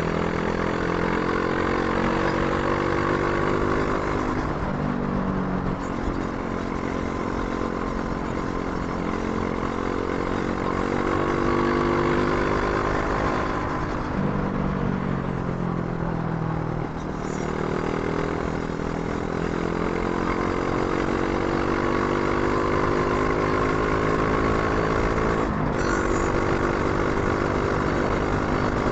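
Brixton Crossfire 500's parallel-twin engine under way on the road, its pitch climbing steadily and dropping back a few times as it shifts up through the gears, with wind rush on the microphone. A sharp click comes near the end.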